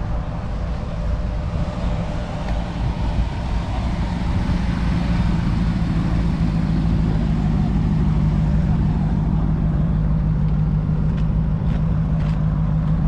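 A car engine running at idle, a steady low rumble that grows louder about four seconds in.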